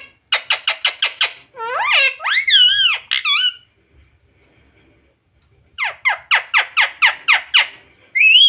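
Ringneck parrot calling: a fast run of short repeated notes, about six a second, then warbling calls. After a pause of about two seconds comes a second fast run, then a short rising call near the end.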